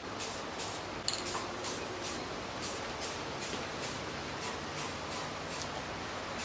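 Aerosol spray paint hissing steadily onto the scythe blade, with a faint high pulsing about three times a second.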